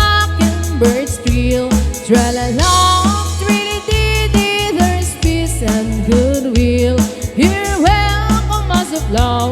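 Live band playing an instrumental break: a melodic lead line gliding from note to note over a steady bass and drum beat.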